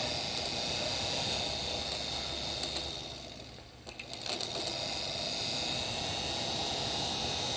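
Old truck heater blower motor running steadily with a high whine. About three seconds in it winds down briefly and then picks back up as its speed is changed.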